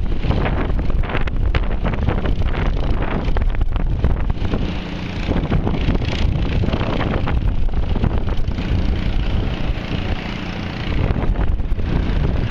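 Wind buffeting the camera's microphone in steady, gusty rumbling, easing briefly twice.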